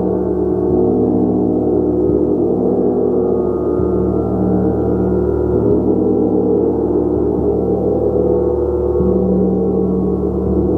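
Gong played continuously: a dense, sustained wash of many overlapping tones, kept going by soft strikes every second or two, with no break in the swell.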